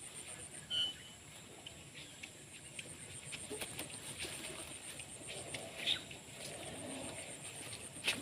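Farmyard ambience: faint animal and bird sounds over a fast, even, high-pitched pulsing, with a few sharp knocks, the loudest near the end.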